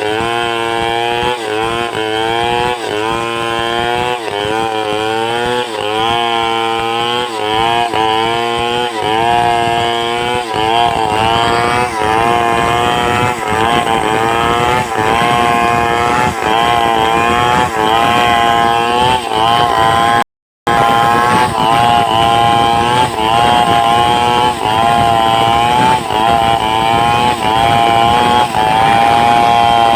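Two-stroke chainsaw running at high revs under load, ripping timber lengthwise into boards. Its pitch dips and recovers over and over during the first third, then holds steadier and higher; the sound cuts out for a moment about two-thirds through.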